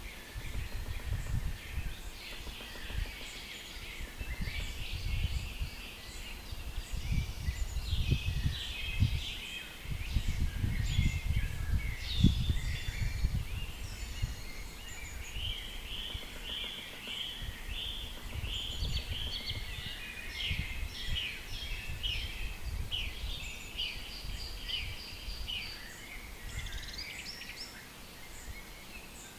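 Forest songbirds singing and calling together: many overlapping short chirps and trills. Under them runs an uneven low rumble that swells and is strongest around the middle.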